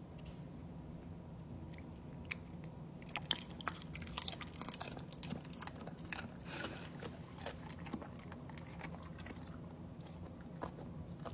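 An animal chewing something crunchy: irregular crisp crunches and bites, starting about two seconds in, over a low steady hum.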